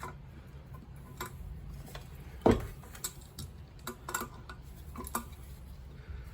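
Scattered light metallic clicks and clinks from tools and parts being handled on a car engine, with one heavier knock about two and a half seconds in, as the cylinder head is worked loose.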